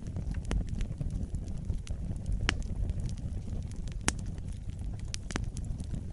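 Wood fire burning in a fireplace, with a steady low rumble of flames and irregular crackles and sharp pops of burning logs.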